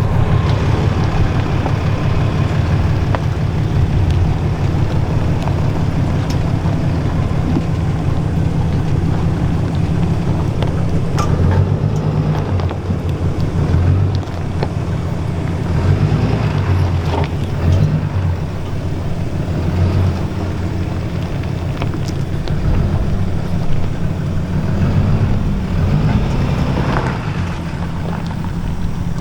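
Ram 2500's Cummins inline-six turbodiesel running at low speed under load as the truck crawls up a rocky trail, its pulsing note changing from about halfway on, with a few faint clicks or knocks and some wind on the microphone.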